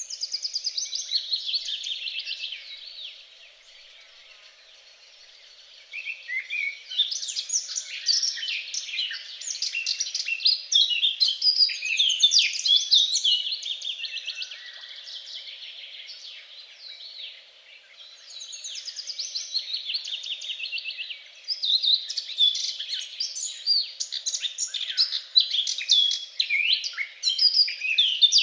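Songbirds singing long runs of quick, varied high notes, in several phrases with short pauses between them.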